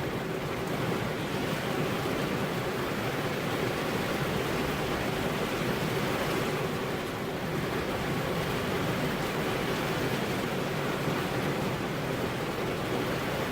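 Steady rainfall, an even hiss with no breaks, with a faint steady hum underneath.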